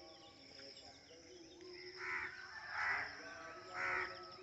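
Three loud bird calls, about a second apart, over a steady high-pitched drone.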